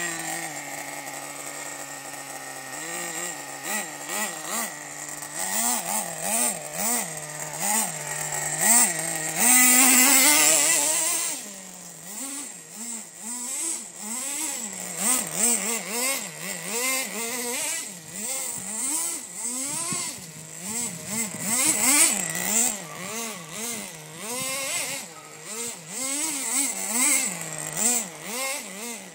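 Nitro RC truck's small two-stroke glow engine revving up and down in quick, repeated throttle blips while being driven, with one longer, loud high-rev run about ten seconds in.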